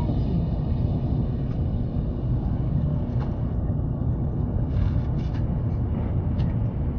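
Train running, a steady low rumble with a few faint clicks and knocks in the second half.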